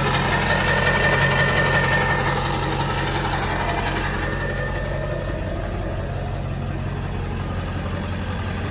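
1999 Ford F-350's 7.3 Powerstroke V8 turbo-diesel idling steadily, warm and sounding healthy.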